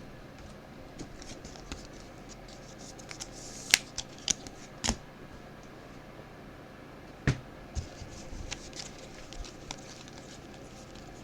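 Football trading cards being handled: a few short clicks and scrapes of card stock sliding and tapping, spread out over a low, steady background hum.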